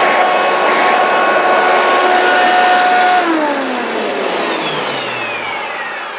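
1995 Hoover Encore Supreme upright vacuum cleaner's 7-amp motor running with a loud, steady whine. About three seconds in it is switched off, and it spins down with its pitch falling as it fades.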